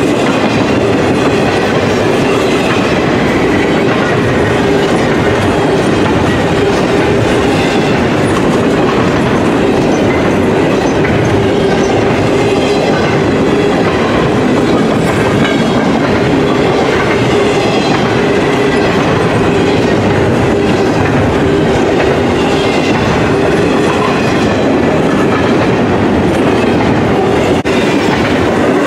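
Double-stack intermodal container freight train rolling past, a loud, steady rumble of cars running over the rails.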